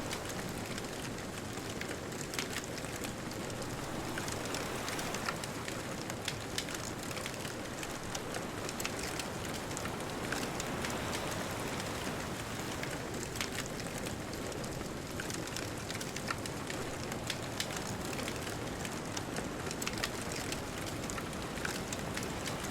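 Wood bonfire crackling, with many irregular sharp pops and snaps scattered throughout, over a steady rushing wash of distant ocean surf.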